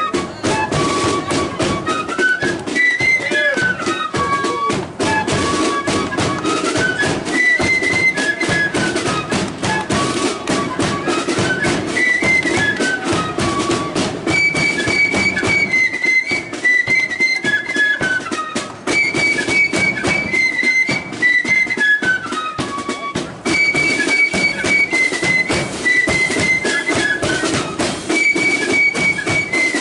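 A marching flute band playing a tune: a bright, stepping flute melody repeating in short phrases over steady snare and bass drumming.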